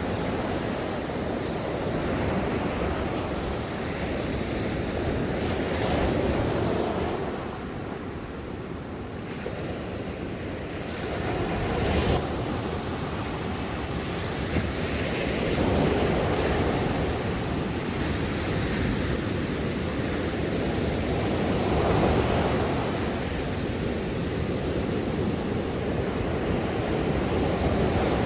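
Ocean waves breaking and washing on a shore, a steady rush of surf that swells roughly every four to six seconds as each wave comes in.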